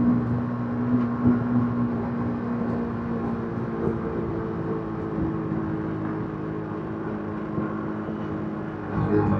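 Yamaha MT-15's 155 cc single-cylinder engine through its stock exhaust, running at fairly steady revs with the throttle eased. Its note dips a little at first and slowly grows quieter, then picks up again near the end as the throttle is opened.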